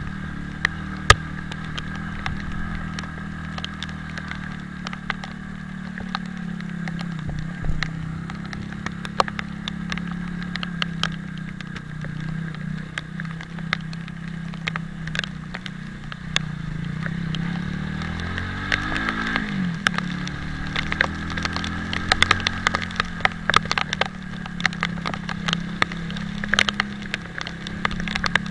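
Italika 250Z motorcycle's single-cylinder engine running steadily while riding, its pitch dropping and then climbing back about two-thirds of the way through. Many sharp ticks of raindrops sound throughout and come thicker near the end.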